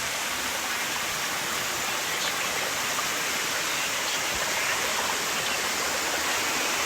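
Steady rush of flowing water, a hillside stream or falls, one even unbroken noise.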